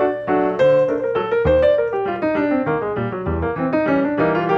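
Background piano music: a melody of quick single notes over low bass notes.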